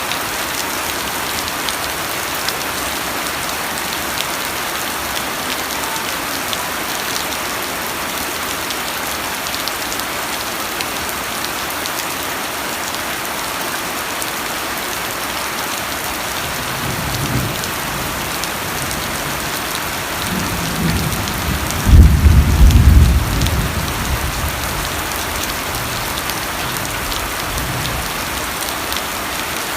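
Steady rain falling throughout. Past the middle, low thunder rumbles start, and about three-quarters of the way in they peak in a loud, deep roll that dies away over a couple of seconds.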